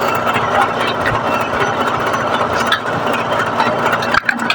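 Steady machine noise with a constant low hum, like an engine running, dipping briefly near the end.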